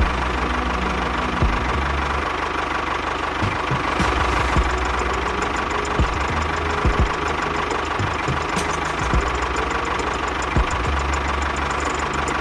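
A small motor on a DIY miniature tractor/bulldozer running steadily, with a steady whine and irregular low knocks scattered through it.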